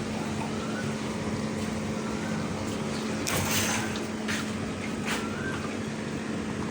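Glasswasher machine running with a steady hum, with a short hissing burst about halfway through and two briefer ones after it.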